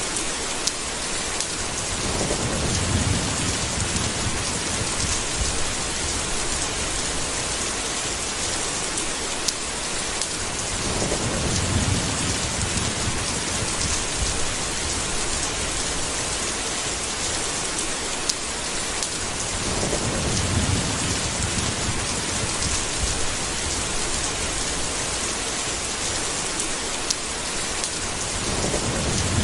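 Steady heavy rain, with low rolls of thunder swelling up four times, about every nine seconds. A few single sharp ticks stand out above the rain.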